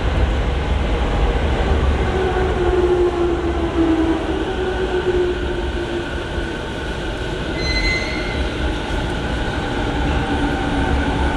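JR Musashino Line electric commuter train pulling into the platform and braking to a stop: a heavy low rumble with a motor whine that sags slightly in pitch as it slows, and a brief high squeal near the end.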